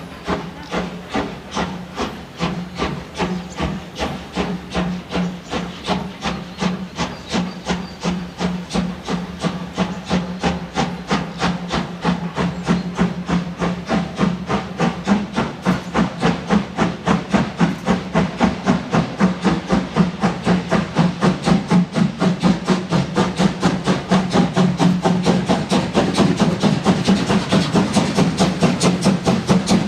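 DR class 41 2-8-2 steam locomotive pulling away from a standstill, its exhaust chuffs quickening from about one a second to several a second and growing louder as it picks up speed. A steady low hum runs underneath.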